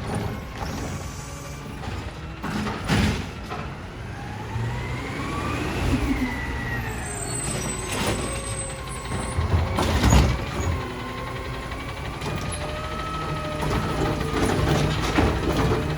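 Side-loader garbage truck at work: the engine revs under load with a whine that rises and falls, broken by several sharp bangs, the loudest about ten seconds in.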